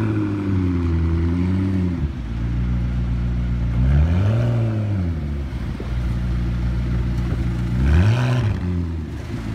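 McLaren P1's twin-turbo V8 idling and being revved three times while standing still. A held rev falls back about two seconds in, then come quick blips about halfway through and near the end.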